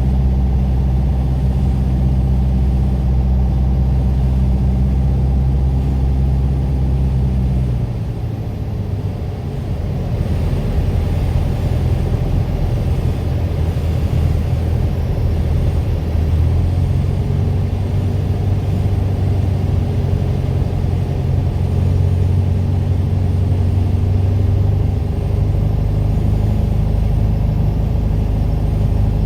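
Piper PA28 Warrior's piston engine running steadily. About eight seconds in, the even engine note gives way to a rougher, rumbling sound, with a steadier note coming back later on.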